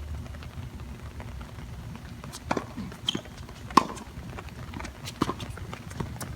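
Tennis ball being struck by rackets and bouncing on the court during a rally: a string of sharp knocks about a second apart, the loudest near the middle, over a steady low rumble.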